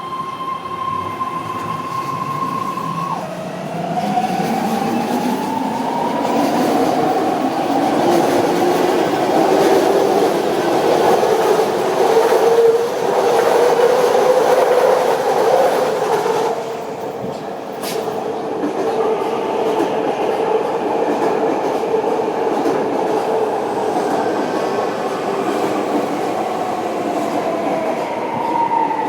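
BART electric trains running through the station: a high electric whine drops suddenly about three seconds in, then climbs in pitch over several seconds as a train gathers speed, with loud rumbling of wheels on track. A single sharp click comes near the middle, and near the end a whine begins falling in pitch.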